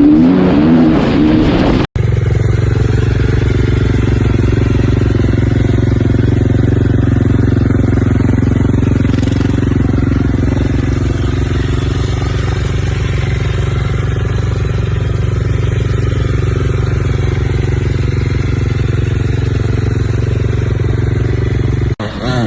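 Dirt bike engine running at a fairly steady pitch, heard close. It comes after an abrupt cut about two seconds in and stops at another cut near the end.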